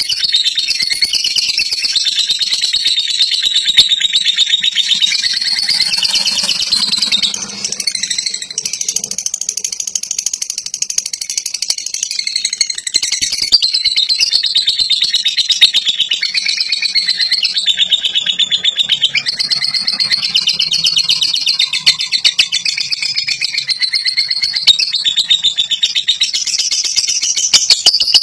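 Lovebird's long, continuous ngekek: a fast, unbroken rattle of high-pitched chirps, easing slightly about eight seconds in before carrying on.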